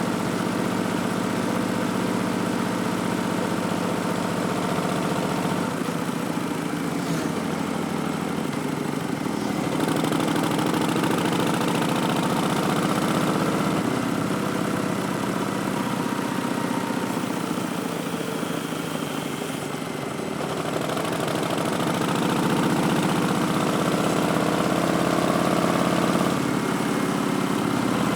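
Harley-Davidson Street Bob's Milwaukee-Eight V-twin running through Vance & Hines Twin Slash slip-on exhausts, a steady engine note that eases off about two-thirds of the way through and builds again afterwards.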